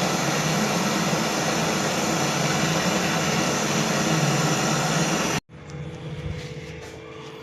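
Loud, steady mechanical rushing noise that cuts off abruptly about five seconds in, leaving a faint steady hum.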